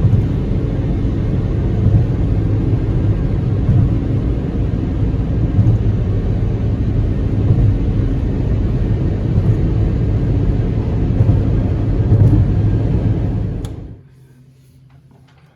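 Toyota Corolla cabin while driving: steady low rumble of road and engine noise. About fourteen seconds in it cuts off suddenly to a quiet room.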